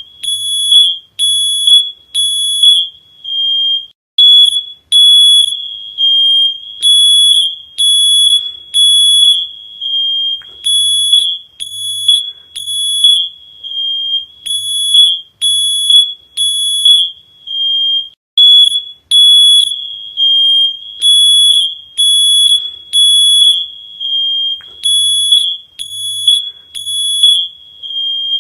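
Smoke alarm sounding its shrill, high-pitched beeps in repeating groups of three with a short pause between groups: the standard three-beep fire evacuation pattern.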